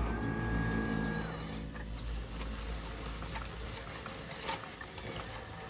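Radio-controlled construction models working: a low, engine-like hum with a thin whine that fades out after about a second and a half, then a fainter tone and a few light clicks.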